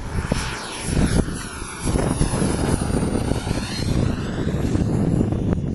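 Radio-controlled model jet's engine running close by: a steady rushing noise with a thin high whine that falls slightly in pitch. A swishing sweep comes and goes as the jet shifts position, and it grows louder about two seconds in.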